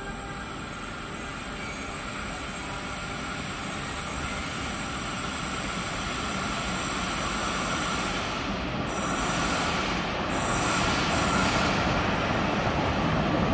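Zürich S-Bahn train approaching on the rails with its wheels squealing, growing steadily louder. Sharper high squeals come in after about eight seconds.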